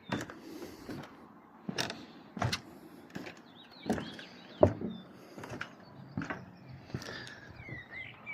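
Irregular sharp clicks and knocks, about a dozen spread unevenly, with faint short chirps in the background.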